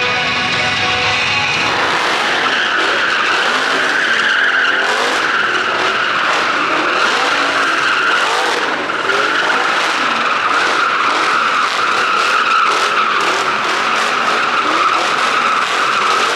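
Engines revving with tyres skidding and screeching on pavement in a steady, continuous screech, with the engine pitch rising and falling.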